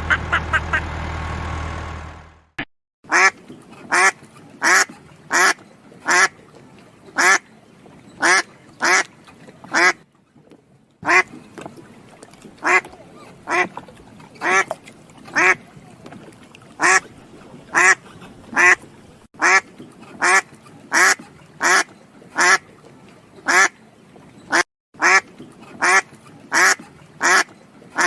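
A duck quacking over and over in a steady series, about one short quack every two-thirds of a second, with a couple of brief pauses. A low steady hum comes before it and stops about two seconds in.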